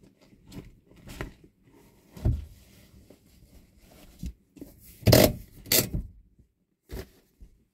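Irregular scraping and rubbing handling noises with several knocks, the loudest two about five and six seconds in.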